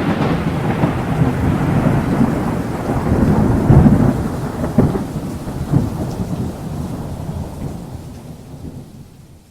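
A long roll of thunder with rain, rumbling in uneven swells and slowly dying away toward the end.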